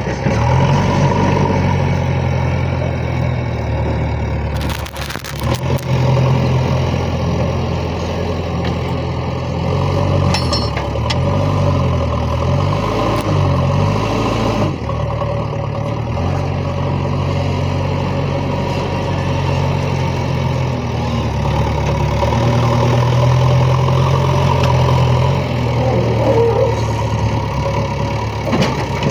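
Diesel engines of a JCB 3DX backhoe loader and tractors running under work, their engine pitch shifting up and down for a few seconds around the middle.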